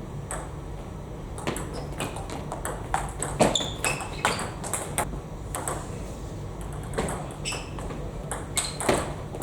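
Table tennis rally: the celluloid-type plastic ball is struck back and forth by rubber-faced bats and bounces on the table, a steady run of sharp clicks about two a second.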